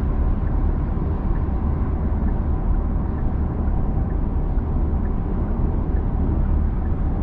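Steady low road and tyre rumble inside the cabin of a Genesis G80 cruising at highway speed.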